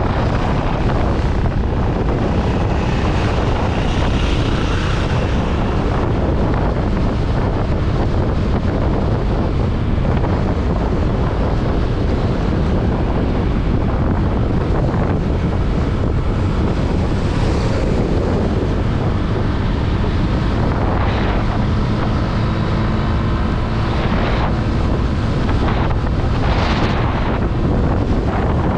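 Heavy wind rushing over the microphone while riding a Honda Click 125i scooter at road speed, with the scooter's single-cylinder engine running steadily underneath. A few brief rushes of noise rise and fall in the second half.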